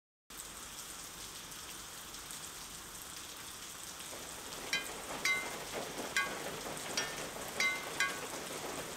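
Steady rain hiss. From about halfway, single drops land with a series of short, bright, pitched plinks, roughly one every half second.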